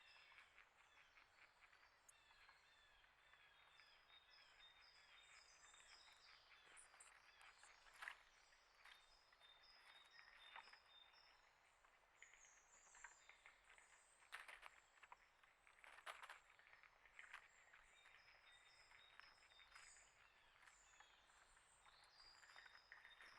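Small birds chirping and twittering, many short high calls overlapping throughout, with a few sharp clicks or taps in between.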